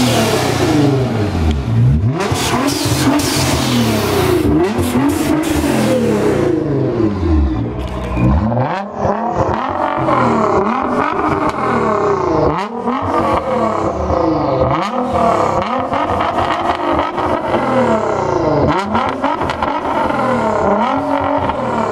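Car engines revved again and again, each rev sweeping up and falling back in pitch every couple of seconds. A loud hissing noise covers the first few seconds.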